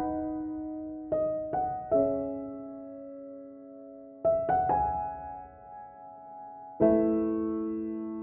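Slow, gentle piano music. Single notes and small groups of notes are struck a few at a time and left to ring and fade.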